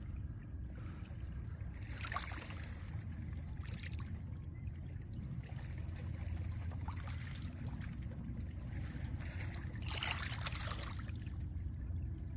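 Small lake waves breaking on a pebble shore, with a hissing wash over the stones about two seconds in and again near the end, over a steady low rumble of wind and surf.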